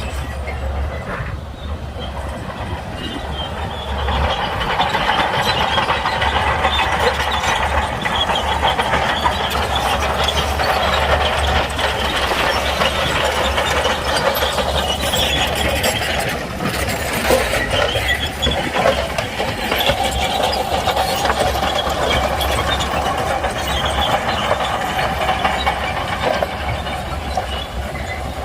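Shantui crawler bulldozer at work: its diesel engine running under load while the steel tracks clank and squeal, getting louder about four seconds in.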